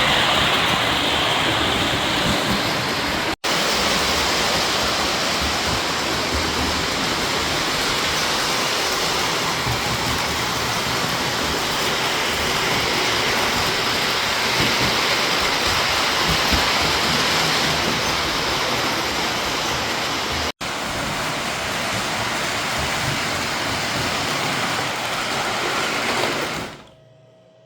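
Model trains, a K-Line Conrail GG1 and an RMT Alaska Beep, rolling on a layout: a steady rushing noise of wheels on the track and the locomotive motors. The sound breaks off for an instant twice, then stops abruptly just before the end, leaving only a faint hum.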